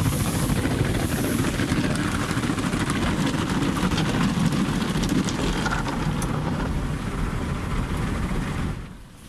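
Automatic car wash machine running, a loud steady rushing noise that falls away sharply near the end.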